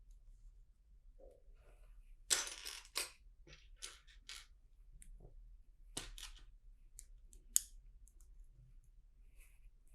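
Plastic LEGO bricks being handled and pressed together: faint scattered clicks and short rattles, the loudest cluster about two and a half seconds in and a single sharp click about seven and a half seconds in.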